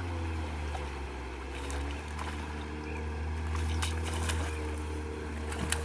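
Boat motor running steadily with a low drone, a few small ticks over it and a sharper click near the end.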